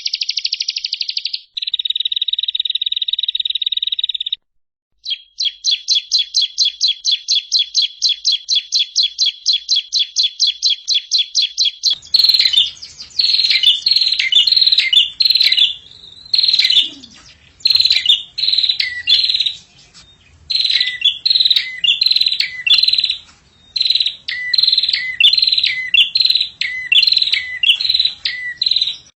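Songbird song spliced from recordings for bird training: fast, dense trills and rapidly repeated high notes, then about twelve seconds in a different recording of sharp, down-sliding chirps in quick runs with a faint hum behind.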